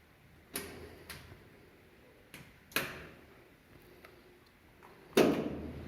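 A series of separate sharp knocks and clunks, the loudest about five seconds in.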